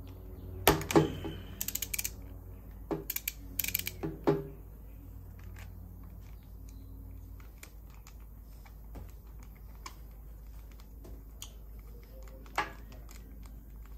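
Hand tools and parts clicking and knocking while working on a motorcycle's spark plugs. There are a few sharp knocks and two short quick runs of clicks in the first four seconds, then only scattered light ticks and one more knock near the end, over a faint low hum.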